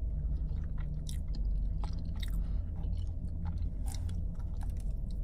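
A person chewing food close to the microphone: scattered soft, wet mouth clicks over a steady low hum.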